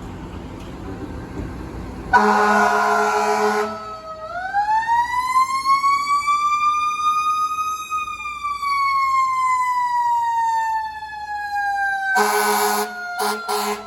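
A fire engine's air horn blasts for about a second and a half, then its Q siren winds up slowly and coasts back down over several seconds; near the end the air horn sounds again in short broken blasts over the falling siren. Low engine and road noise comes before the first horn blast.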